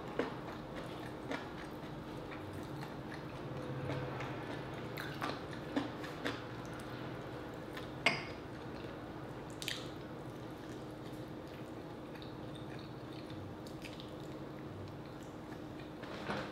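Close-up eating sounds: chewing and wet mouth clicks and smacks while pulling meat off a rotisserie chicken leg by hand, heard as a scatter of short sharp clicks over a faint steady hum.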